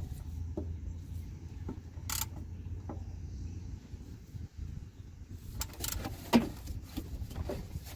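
Scattered sharp metallic clicks and clinks of tool and drain plug as the transmission pan drain plug is tightened, the loudest about two seconds in and a cluster near six seconds in, over a steady low hum.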